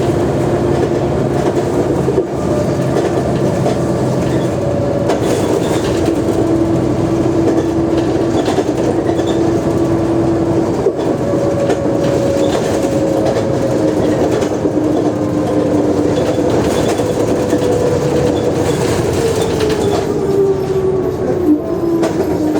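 Mercedes-Benz O345G articulated bus under way: a steady diesel drone with whining tones on top. About halfway through the whine steps up in pitch, and over the last few seconds it falls slowly.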